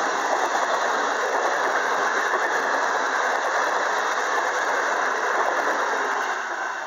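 Passenger train running past on the rails: a loud, steady rushing of wheels on track with a thin high squeal over it, dying away near the end as the last coaches go by.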